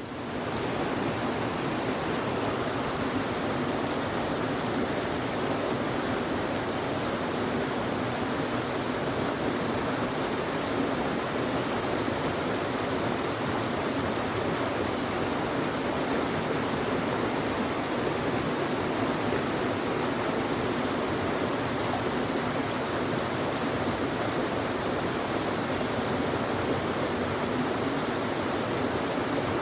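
Mountain stream water rushing steadily, a dense even roar with no breaks.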